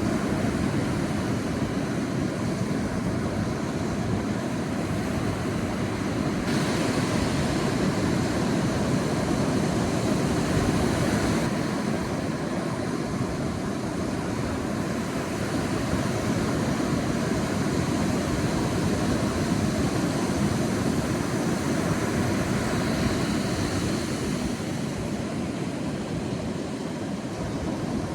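Sea waves breaking and washing up a beach as a continuous surf, swelling and easing gently.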